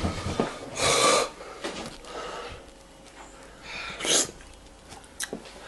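A person breathing hard with sharp, noisy exhales and sniffs, the loudest about a second in and again about four seconds in: the reaction to the burning heat of bird's eye chillies in the mouth.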